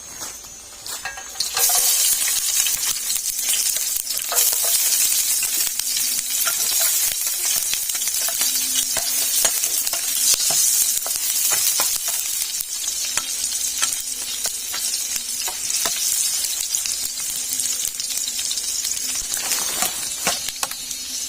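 Steady sizzling hiss with many small crackling pops, starting abruptly about a second and a half in.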